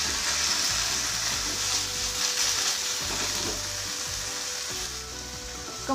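Silken tofu cubes sizzling in hot oil in a nonstick frying pan, turned over with a wooden spatula; the sizzle gets quieter near the end.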